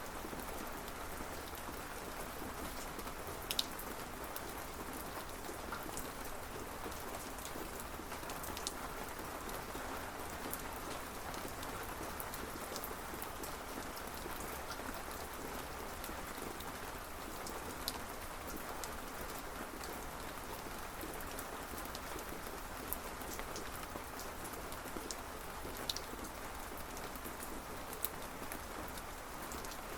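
Steady rain falling, with a constant hiss and scattered sharp drips or drops landing close by.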